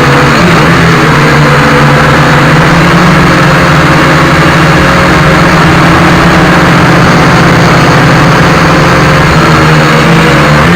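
Dromida Omnias FPV quadcopter's electric motors and propellers buzzing loud and close, a steady hum with wavering pitch that dips just after the start and climbs again near the end.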